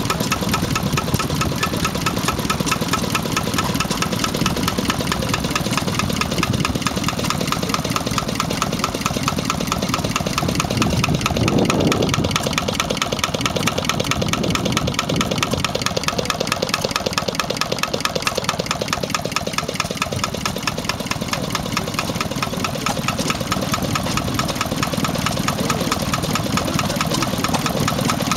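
Enfield stationary engine running steadily, its firing beat fast and even.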